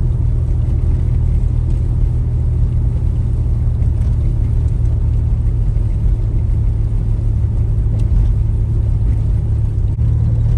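Car on the move: a steady low rumble of engine and road noise, even throughout.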